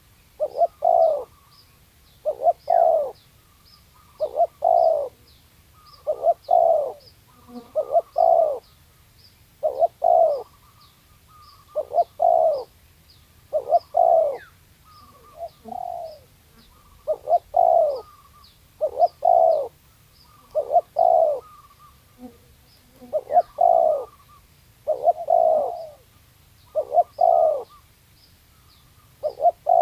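A spotted dove (tekukur) cooing over and over, one short phrase of coos about every one and a half to two seconds. Faint high chirps tick steadily in the background.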